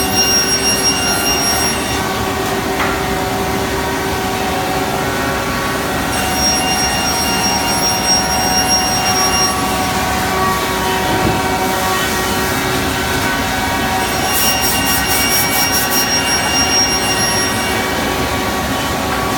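Biesse Rover A 1659 five-axis CNC router machining: a steady mechanical noise with a high whine that comes and goes in stretches of a few seconds.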